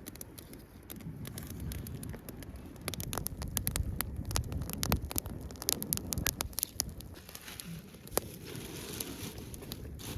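Wood campfire crackling, with a run of sharp pops and clicks that is densest in the middle, over a low rustling rumble.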